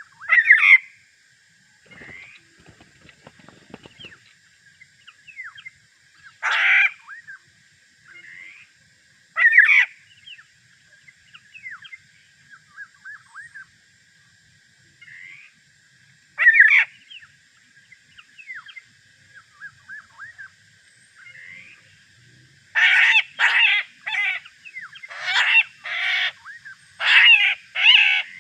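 Harsh, nasal calls of a Sulawesi oriole (black-naped oriole, kepodang): single loud calls every few seconds, then a fast run of repeated calls near the end. Softer whistled chirps come between them.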